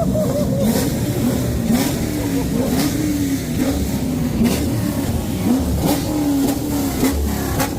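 Car engine being revved over and over, its pitch rising and falling in quick repeated blips, with a few sharp cracks in between.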